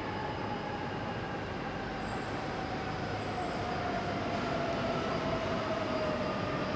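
An E3 series Shinkansen coupled to an E2 series set pulls slowly into the station, with a steady running rumble that grows louder as it nears. A clear whine falls slowly in pitch as the train slows.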